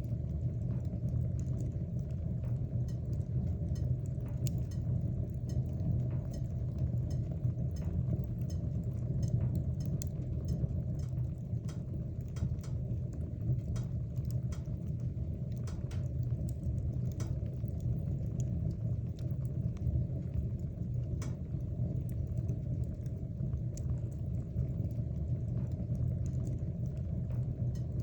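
Wood fire burning in a fireplace: a steady low rumble of the flames with frequent small crackles and pops scattered irregularly throughout.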